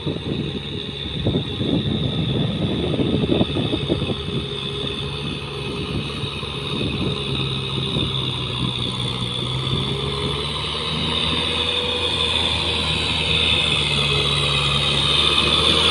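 Tractor engine running steadily, with irregular knocks and clatter during the first few seconds.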